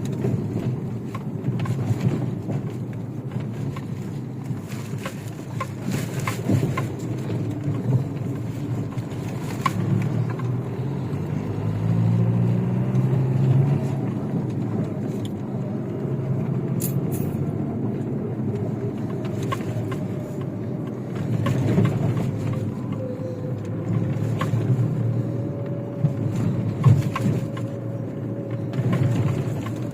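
Chevrolet Niva driving off-road, its engine working under changing load, with scattered knocks and clicks from the body and running gear over rough ground. The engine note swells about twelve seconds in and again a little past twenty seconds, and a faint steady whine joins in the second half.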